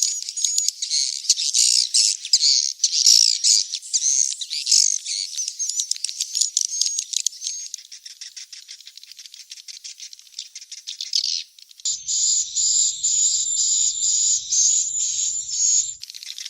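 Edible-nest swiftlet chicks calling: a dense, high-pitched twittering of rapid chirps and clicks. This is a lure recording played to draw swiftlets into a bird house. About twelve seconds in, the track cuts abruptly to a louder, steadier stretch of calls over a faint low hum, and it cuts again shortly before the end.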